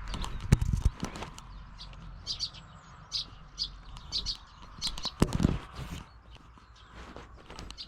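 Small birds chirping over and over in short high notes, mixed with low thuds and rustling close to the microphone, loudest just after the start and again about five seconds in.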